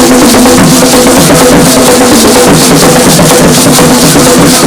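Loud traditional drumming with shakers, a quick steady beat of strokes over a held tone, playing for a local cultural dance group.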